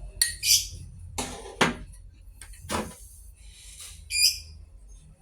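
Metal engine parts being handled during valve spring fitting: three sharp metallic clanks, with a short high squeal at the start and another about four seconds in.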